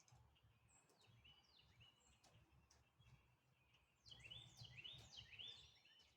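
Faint birdsong: two runs of three or four quick, falling chirps, about a second in and again about four seconds in, over a quiet outdoor background.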